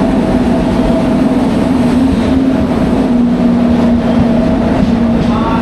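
Arriving passenger train passing close along the platform as it pulls in: the locomotive gives a loud steady drone over a low rumble of the passing coaches.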